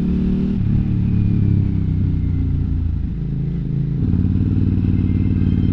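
KTM 950 Adventure's V-twin engine running under way, heard from on the bike. Its pitch rises and falls with the throttle, dips about three seconds in, then settles into a steady, even beat.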